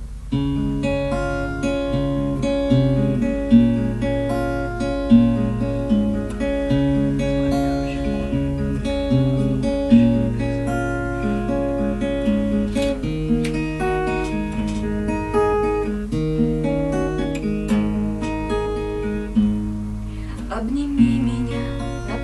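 Acoustic guitar playing an instrumental introduction, picked and strummed chords ringing steadily.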